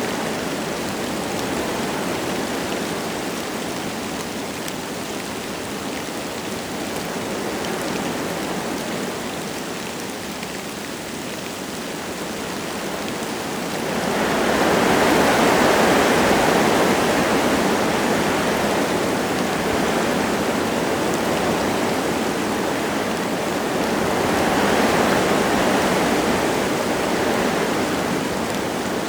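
Wind gusting through forest trees with light rain; the rush swells sharply about halfway through and again near the end.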